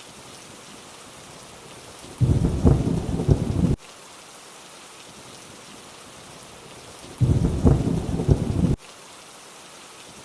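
Steady rainfall hiss with two short, deep rumbles of thunder, each about a second and a half long and about five seconds apart, starting and stopping abruptly as in a looped ambience track.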